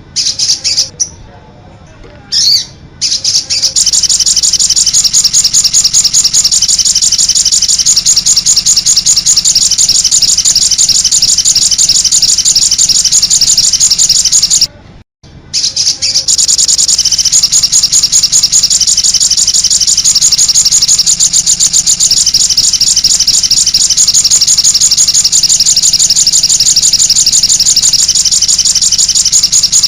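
Songbird tutor recording (masteran) of fast, continuous high-pitched chirping and trilling. It breaks off briefly about a second in and again halfway through, then resumes.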